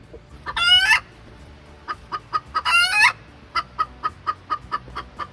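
Chickens: two loud, short calls about two seconds apart, with a run of quick, soft clucks between and after them.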